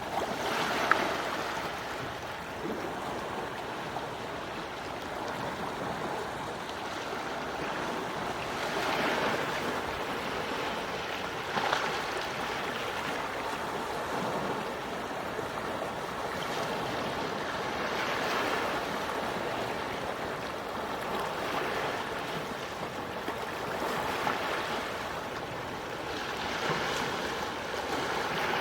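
Gentle sea waves washing onto the shore: a steady wash of water that swells every few seconds as each wave breaks, with an occasional brief splash.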